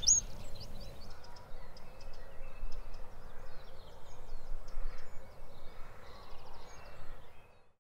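Faint scattered bird chirps and calls over a low outdoor hiss, fading out near the end.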